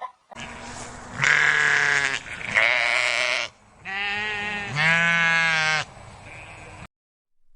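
Farm animal bleating, about four long calls in a row, the later ones quavering.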